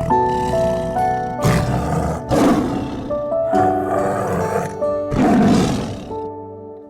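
A large animal roaring four times, each roar rough and about a second long, over soft background music.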